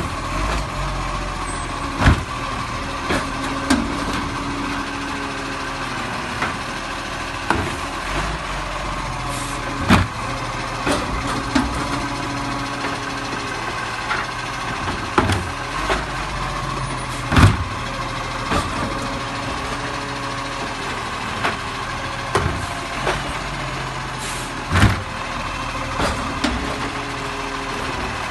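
Garbage truck engine running steadily, with sharp knocks and clanks every few seconds.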